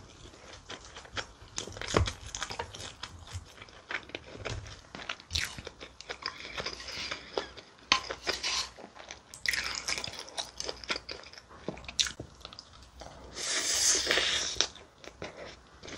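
Close-miked eating: chewing and crunching through mouthfuls of bibimbap, with many short clicks and two longer noisy crunching stretches, one just before halfway and one near the end.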